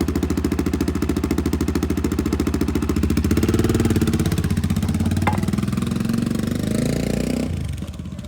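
Motorcycle engine running with a steady beat, the revs rising slightly partway through, then fading away near the end as the bike rides off.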